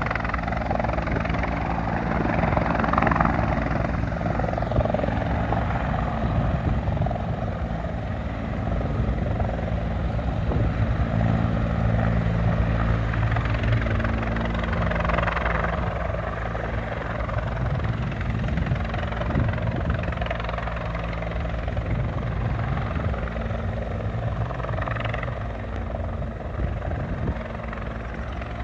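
Rescue helicopter running steadily overhead with a continuous rotor and engine drone, getting a little quieter near the end.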